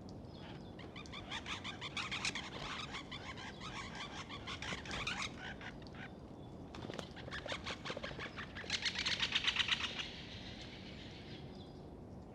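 Great spotted woodpecker drumming on an oak trunk: several rapid rolls of bill strikes, the loudest and fastest burst coming near the end.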